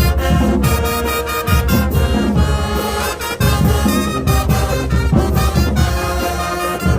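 High school marching band playing: a full brass section of trumpets and trombones holding chords over a steady drum beat.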